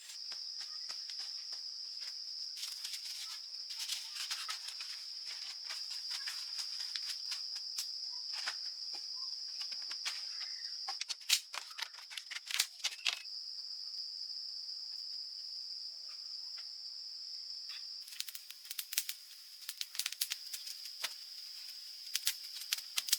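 Insects in the forest keeping up one steady, high-pitched buzzing drone, with irregular sharp clicks and crackles over it that come thickest about halfway through.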